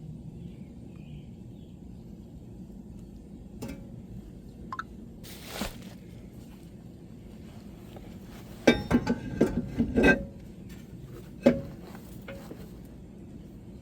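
Metal tools and parts clinking and clattering: a few scattered knocks, then a quick run of sharp, ringing clinks about two-thirds of the way through and one more clink shortly after, over a steady low hum.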